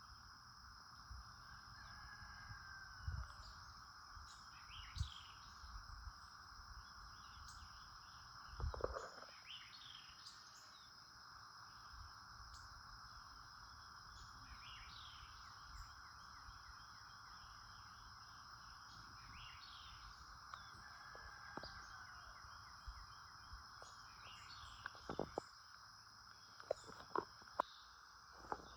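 Faint outdoor ambience: small birds chirping now and then over a steady high drone of insects. A few sharp clicks come in quick succession near the end.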